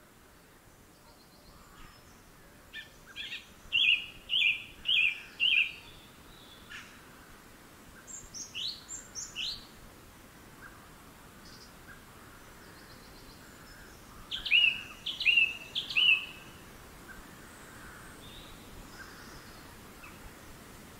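A songbird singing in three short phrases of clear, repeated notes: one about three seconds in, a set of rising notes near eight seconds, and another phrase around fifteen seconds, over a faint steady outdoor hiss.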